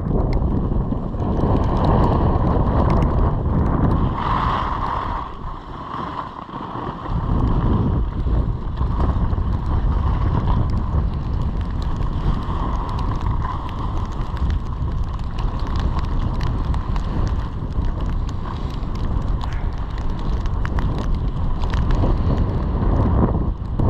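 Wind rushing over a GoPro action camera's microphone during a downhill ski run, with skis scraping and chattering over the snow. The rush drops briefly about five seconds in, then picks up again.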